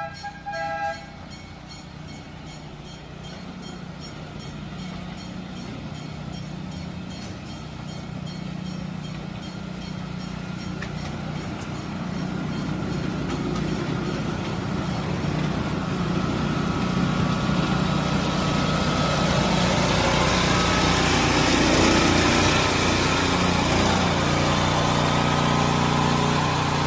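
Two short horn toots, then the engine of a small petrol-electric locomotive running steadily, its drone growing gradually louder.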